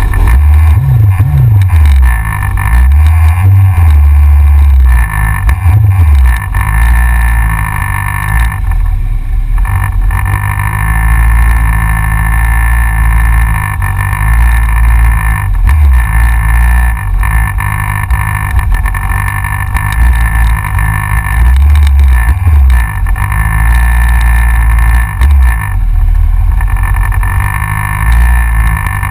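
Yamaha XJR motorcycle being ridden, heard from a camera on the front of the bike: heavy wind rumble on the microphone over the engine, whose note rises and falls several times as the throttle changes.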